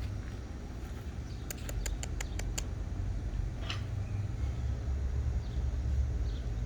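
A quick run of about seven sharp taps, then a single short falling chirp, over a steady low rumble.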